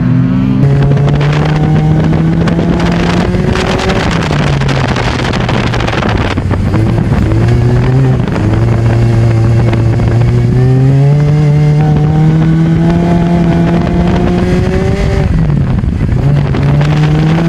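Peugeot autocross car's engine heard from inside the stripped cabin while racing on dirt, its revs climbing and dropping again and again. A rougher, noisier stretch comes about four to six seconds in.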